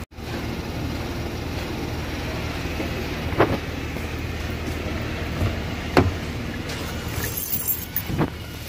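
Kia Stinger idling: a steady low engine rumble, with three short sharp knocks spread through it.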